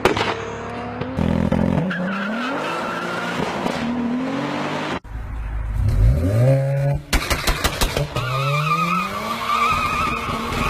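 VW Golf engine at full throttle, revving up and dropping back as it accelerates through the gears, with tyre squeal. A rapid string of sharp cracks comes about seven seconds in, and the sound breaks off abruptly about five seconds in.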